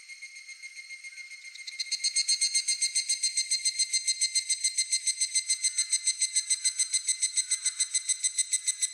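Higurashi (evening cicada) calling: a ringing, high-pitched trill pulsed about seven times a second. A fainter call is heard first, then a much louder one comes in about two seconds in and runs steadily.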